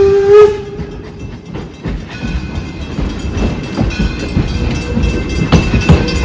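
Steam locomotive's whistle ending with a short rise in pitch about half a second in, then the rumble and clatter of the train rolling along the rails, slowly getting louder.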